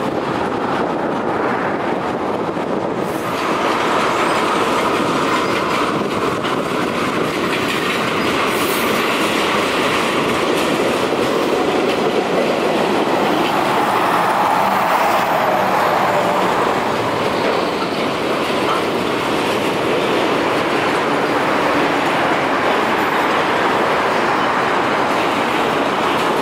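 Freight train's tank cars and autorack cars rolling past, a steady rumble of steel wheels on rail with a rhythmic clickety-clack.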